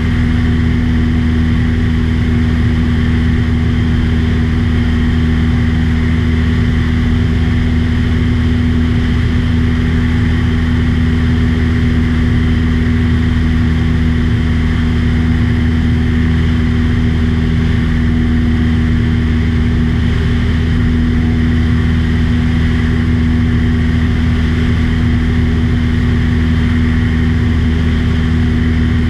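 Small aircraft's engine running steadily in level flight, an unbroken drone with no change in pitch.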